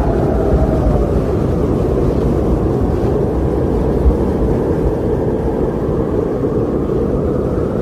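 Blizzard wind blowing steadily around a car, a dense low rumbling rush, heard as from inside the car. A faint moaning tone slides down in pitch at the start.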